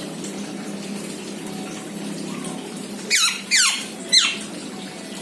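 Black-naped oriole giving three quick, harsh calls, each sliding down in pitch, about three seconds in. Under them runs a steady rushing hiss with a low hum.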